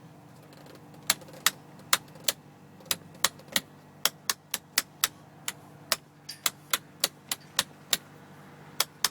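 Buttons in a truck cab pressed one after another: a run of sharp, irregular clicks, up to about three a second, over a steady low hum.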